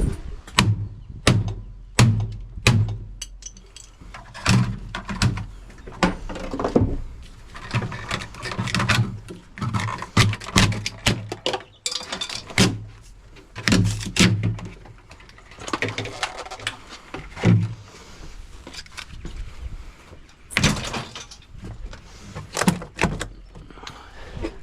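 Irregular knocks, clunks and rattles of a fridge-freezer's plastic and metal panels being pulled apart by hand, many sharp hits throughout.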